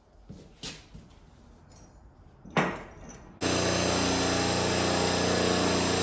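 A few light knocks and taps, then a steady motor-driven shop machine starts running at a constant pitch, starting abruptly about three and a half seconds in.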